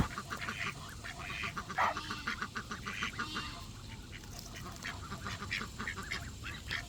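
A flock of ducks quacking, many short calls overlapping one another.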